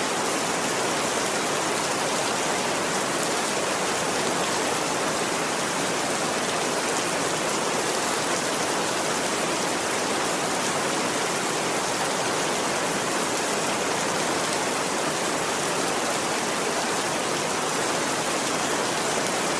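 Steady rain falling, an even, unbroken hiss with no pauses or changes.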